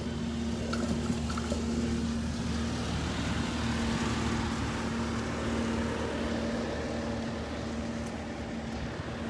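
Steady rolling noise of a bicycle ride on a paved path, tyres and moving air on the microphone, with a steady low hum underneath.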